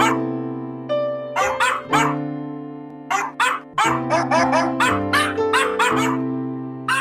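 Short dog barks, pitch-shifted onto the notes of a sung melody over sustained keyboard chords: a dog-bark cover of a song. About fifteen quick barks come in little runs, each on a different pitch.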